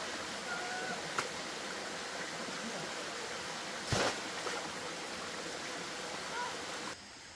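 Steady rushing of flowing water. There is a sharp knock or splash about four seconds in and a fainter one about a second in. The rushing drops away suddenly near the end.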